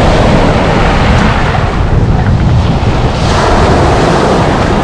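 Strong sea wind buffeting the microphone over surf washing onto the shore. The noise swells about half a second in and again just after three seconds.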